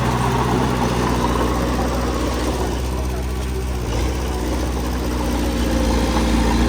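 Diesel engine of heavy earthmoving machinery running steadily, with a brief dip about four seconds in.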